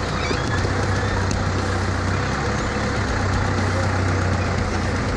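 Motor vehicle engine running steadily: a low, even hum under a constant wash of noise.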